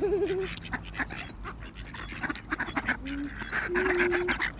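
A flock of ducks quacking and calling in a jumble of short calls as they crowd in for bread.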